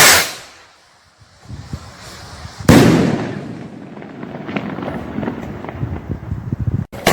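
Fireworks bursting overhead. A loud bang opens, a second big bang comes about three seconds in and trails off in a long crackling rumble, and a rapid string of bangs follows near the end.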